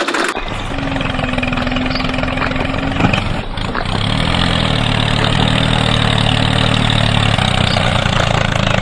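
A small motor running steadily, coming in just after the start; after a click about three seconds in it settles into a steady, lower hum.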